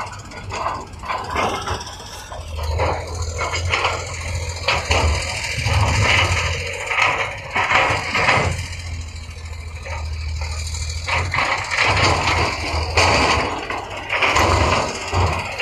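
Diesel engine of heavy earthmoving machinery running steadily under load, with repeated clanks, rattles and scraping of metal against rock and dirt throughout.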